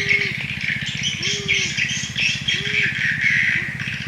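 Birds chirping in a dense chorus, while a low hooting bird call repeats about four times, each note shorter than the one before. Underneath runs a fast, even pulsing low drone.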